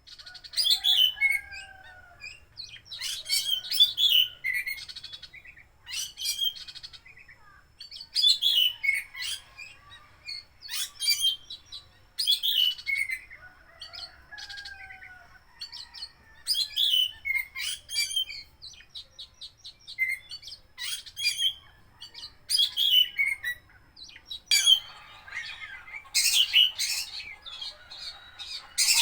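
Oriental magpie-robin (kacer) singing in a steady run of short, varied phrases of whistles, chirps and trills, a new phrase every second or two. Its song is full of mimicked calls of other birds.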